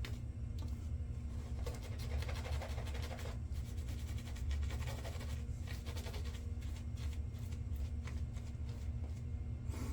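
Razor scraping through lathered stubble in several short scratchy strokes, over a steady low hum.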